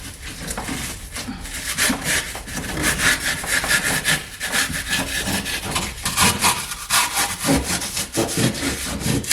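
Small hand saw cutting through cured expanding foam at the wall, rasping back-and-forth strokes at about two a second.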